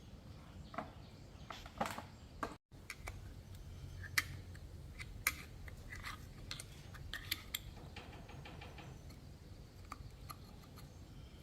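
Scattered light metallic clicks and clinks of hand tools and small motorbike parts being handled, with a short quick rattle about three-quarters of the way through.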